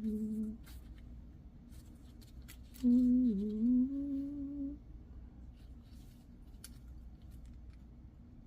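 A man humming a short tune to himself: a brief hummed note at the start, then a wavering hummed phrase of about two seconds starting about three seconds in. Faint light clicks sound now and then.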